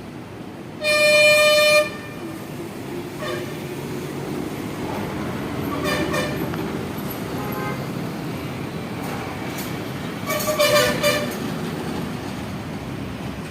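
A vehicle horn sounds once, loud and steady, for about a second near the start, over continuous traffic noise. A few shorter pitched toots follow later.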